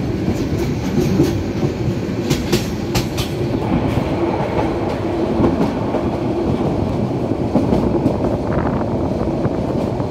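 Passenger train running along the track, heard from an open coach doorway: a steady loud rumble of the wheels on the rails, with sharp clickety-clack clicks as the wheels cross rail joints, most of them in the first few seconds.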